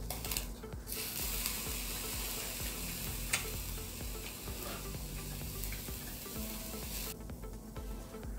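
Thin slices of beef sizzling on a charcoal grill's wire grate, a steady hiss that starts about a second in and drops away about a second before the end, with one sharp click partway through.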